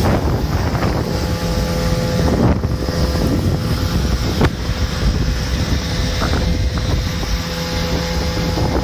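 Mikatsu 9.8 hp two-stroke outboard motor running steadily with the boat under way, with wind buffeting the microphone.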